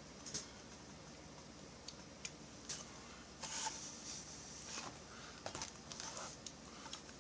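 Faint, scattered light clicks and short rustling scrapes of small chainsaw parts being handled and fitted by hand.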